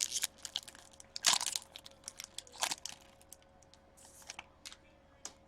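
Card pack wrapper crinkling and tearing as it is opened by hand. It comes as irregular crackles and short rustles, the loudest about a second in and again near three seconds.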